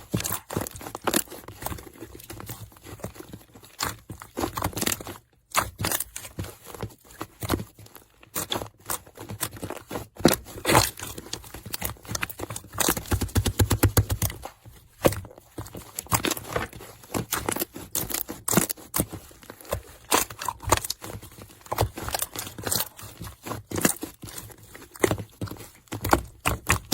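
Slime being squished and pressed by hand, making an irregular run of clicks, pops and crinkly crackles.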